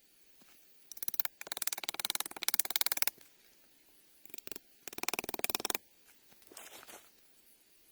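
Hand work on wood: five bursts of fast rasping strokes, the longest lasting nearly two seconds.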